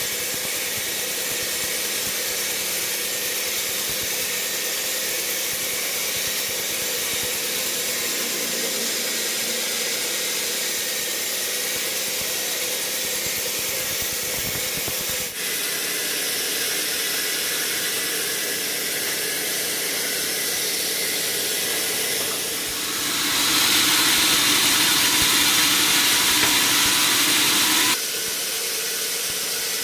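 Sawmill running: a steady hiss over a low machine hum, with a brief break about halfway through and a louder, brighter stretch lasting about five seconds near the end.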